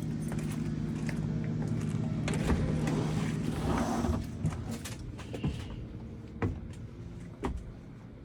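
Blue Bird Vision school bus running with a steady low hum. A rushing swell rises about two seconds in and fades around four seconds, then several short knocks follow.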